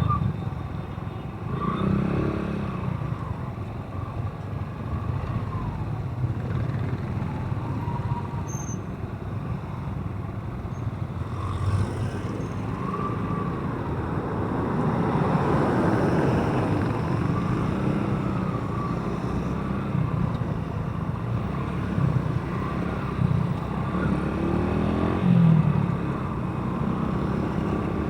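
Motorcycle running along a road, its engine note rising and falling, over a steady rush of road noise.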